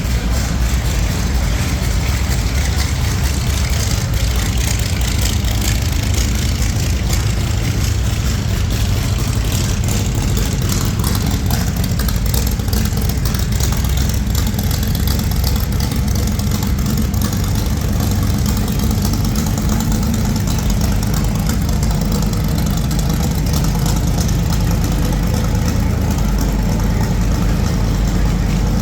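Car engine running at idle: a steady low rumble that holds throughout.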